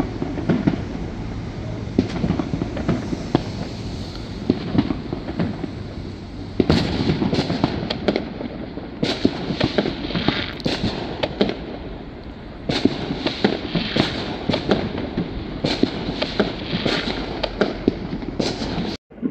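Bonfire Night fireworks going off: a stream of sharp bangs over a low rumble, turning into dense crackling volleys about a third of the way in. The sound cuts out briefly near the end.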